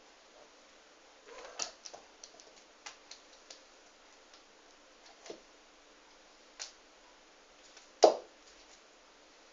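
A cat playing with a feather wand toy: scattered light clicks and taps, with a louder knock about eight seconds in.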